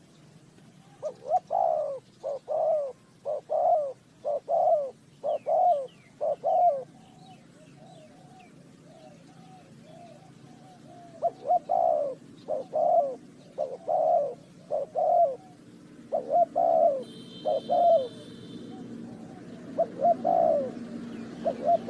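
A dove cooing in repeated short phrases, in two long bouts with a pause of a few seconds between them and a few more coos near the end. Faint high chirps of small birds sound behind it early on.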